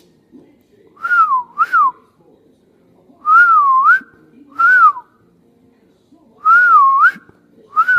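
A whistled two-part phrase, a wavering up-and-down note followed by a short falling one, repeated three times.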